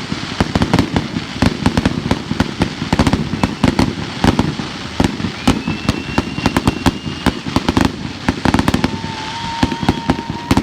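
Fireworks going off in a dense barrage: many sharp bangs and crackles a second, overlapping. A steady high whistle sounds for about two seconds midway, and a lower one comes in near the end.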